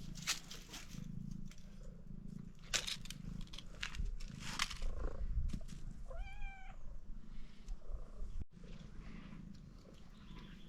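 Domestic cat purring, with scattered clicks and rustles, and a single short meow about six seconds in.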